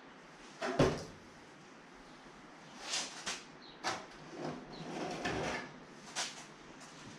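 Scattered knocks and clunks of hand work on car body sheet metal, several separate hits a second or so apart, the loudest about a second in.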